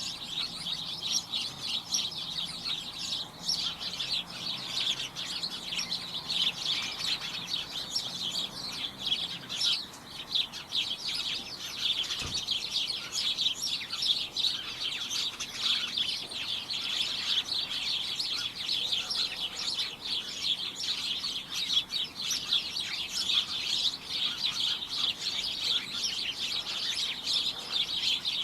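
A flock of small birds chirping together, a dense, cacophonous chatter of short high chirps overlapping without pause.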